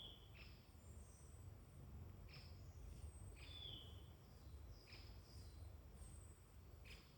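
Faint woodland birdsong: short high calls repeat about once a second, thin high notes alternating with quick downward-sweeping chirps, over a low steady background rumble.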